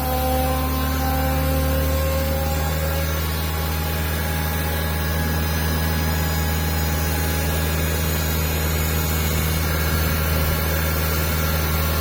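Deutz engine running at a steady speed with an even, low hum. A few faint higher tones rise gently in pitch during the first few seconds.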